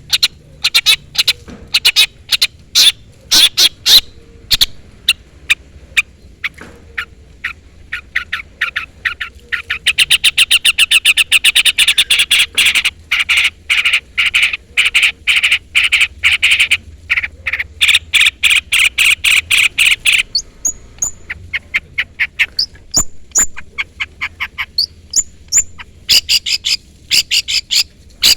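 Long-tailed shrike calling: a series of loud, sharp notes, turning into a fast continuous chatter for several seconds in the middle, then higher thin notes near the end. These are challenge calls used as a lure to make other shrikes answer.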